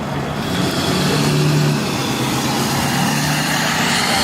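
A vehicle's engine running steadily, with a low hum that grows a little louder about half a second in, over road noise.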